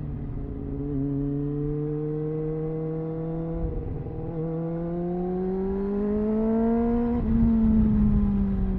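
Triumph Speed Four's inline-four engine on the move. The note breaks briefly about four seconds in, then climbs steadily in pitch under acceleration. It falls away again from about seven seconds as the throttle closes, over a low rush of wind and road noise.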